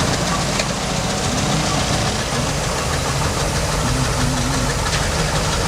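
Heavy machinery diesel engines running at a steady level, their pitch wavering slightly up and down.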